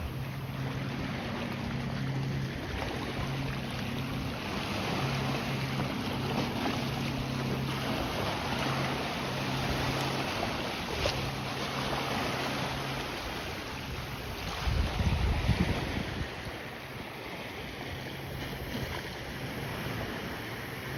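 Lake waves and wind on the shore, with wind buffeting the microphone in a strong gust about three-quarters of the way through. A low, steady engine hum is heard in stretches through the first two-thirds, then stops.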